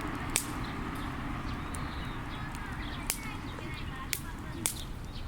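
Wood fire burning with a steady hiss, broken by a few sharp crackles and pops from the burning firewood.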